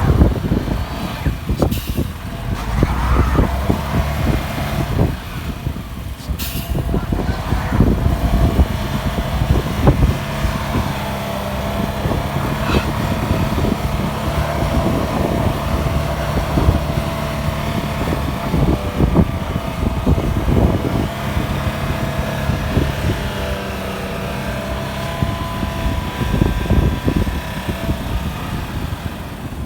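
Audi 100 quattro's engine running steadily under load. A rough low rumble and irregular jolts run through it.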